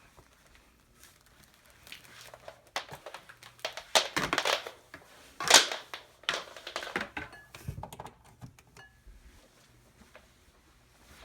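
Power cord being unwound from the cord hooks of a Hoover Elite Supreme upright vacuum: irregular rustling, clicks and knocks of cord and plastic, loudest about four and five and a half seconds in.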